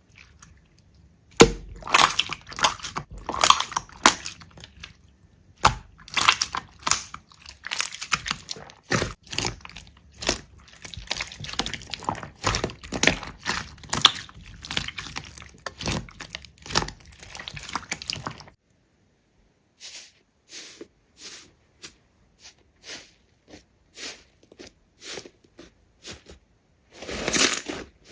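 Slime being squeezed and pressed by hands, giving rapid crackling pops and squishes. The popping thins out to a few scattered clicks for several seconds, then picks up again near the end.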